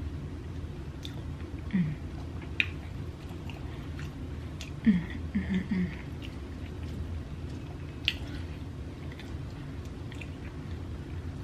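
Close-miked chewing and wet mouth sounds as a forkful of soft seafood-stuffed baked potato and fried catfish is eaten, with scattered small clicks and smacks. A few short low 'mm' hums come about two seconds in and again around five to six seconds in.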